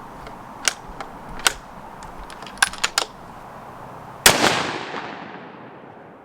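A few light clicks, then a single rifle shot from a .204 Ruger varmint rifle a little over four seconds in, its echo tailing off over the next two seconds.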